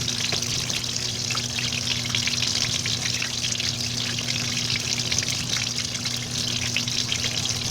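Washing machine water pouring and splashing steadily, with a low electric hum beneath it.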